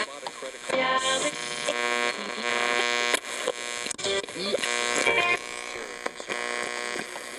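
Radio being tuned: a buzzing, humming carrier with static, short whistling pitch glides and broken fragments of voices as the dial sweeps across stations.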